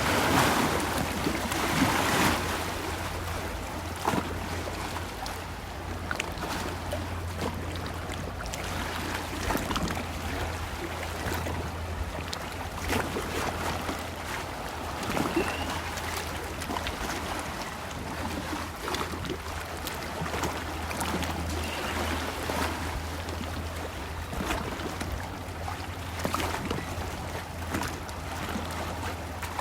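Lake water lapping and splashing, with scattered small splashes over a steady low hum.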